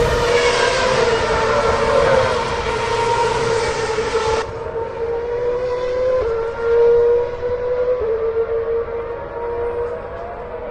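A siren sounding, held on one steady pitch with a few small steps up and down, over a rushing hiss that cuts off about four and a half seconds in.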